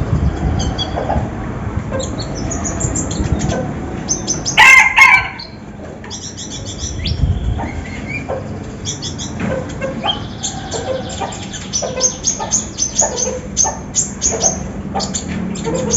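Konin songbird singing fast, dense strings of short high chirps and trills. About five seconds in comes one loud, lower, fowl-like call.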